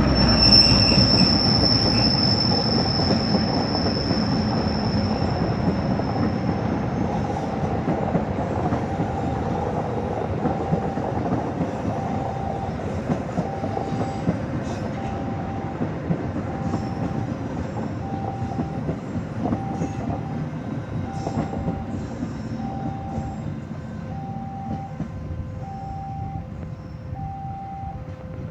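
Passenger train hauled by a KAI CC206 diesel-electric locomotive rolling past and receding, its wheels and cars rumbling and fading steadily. A high wheel squeal runs through the first six seconds or so. From about eight seconds in, a warning tone pulses on and off roughly once a second.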